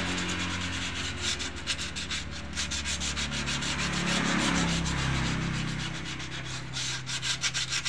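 Sandpaper rubbed by hand over a drum brake shoe's lining in quick back-and-forth strokes, scuffing off embedded grit and levelling the scored friction surface so it seats evenly against the drum. A low steady hum runs underneath.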